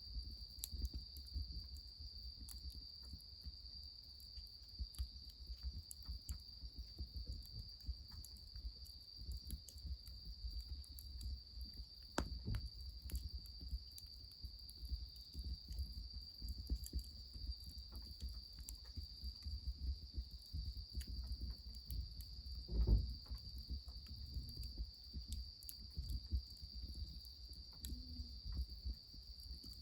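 Crickets trilling in one steady high note over a wood fire crackling and a low rumble. Two dull knocks come, one about twelve seconds in and a louder one near 23 seconds.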